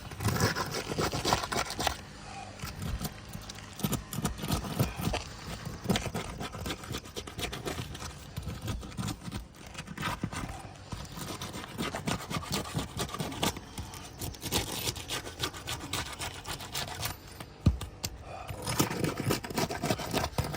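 3-tab asphalt shingles being worked loose on a roof, with irregular scraping and crackling as the sealed shingles are lifted and separated from the course below.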